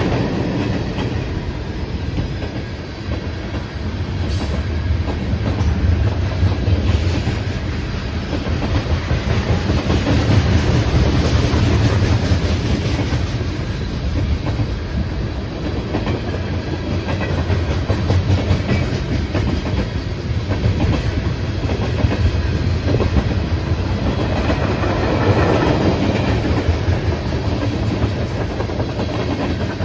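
A train's railcars rolling steadily past with a continuous rumble and the clickety-clack of wheels over the rail joints.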